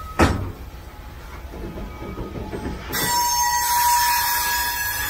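Coal train hopper cars rolling past on the rails, with one sharp clank just after the start. From about three seconds in, the wheels squeal: a loud hiss with a steady high tone.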